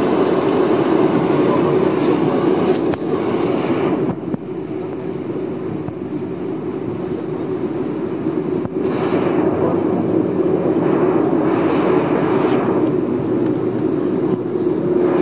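Steady drone and air hiss in the cabin of a Boeing 747-400 during pushback, with a low hum under it and hissing swells that rise and fall in the second half.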